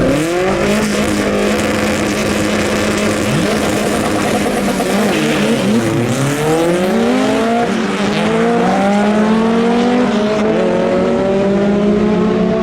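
Drag-racing car engines at full throttle. One engine's pitch drops sharply about six seconds in, then climbs again in repeated rises, like shifts through the gears, over the steady drone of another engine.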